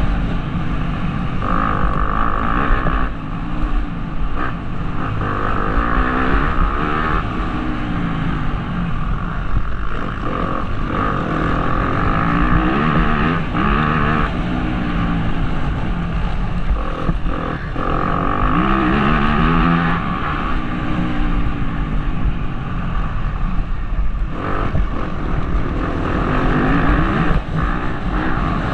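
Motocross bike engine revving hard and shutting off over and over, its pitch climbing and dropping every few seconds, with a steady rumble of wind on the helmet-mounted microphone.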